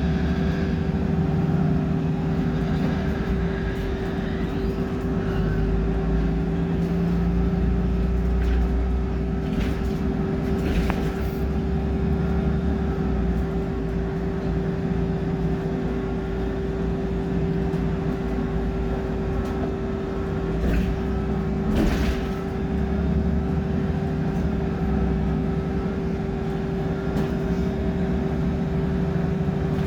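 A BMC Procity city bus's Cummins diesel engine running with a steady low drone and a constant whine. Two brief clicks or rattles break through, about eleven seconds in and again about twenty-two seconds in.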